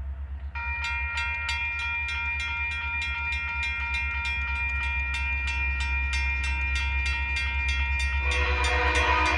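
A railroad crossing bell starts about half a second in and rings with steady, even strokes over a low rumble. About a second before the end, a locomotive horn begins to sound, louder than the bell.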